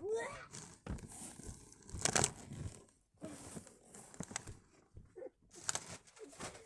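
Irregular rustling and crinkling handling noise, with a few sharper scuffs: clothing and body brushing against the car's seats and interior as a person climbs through the car.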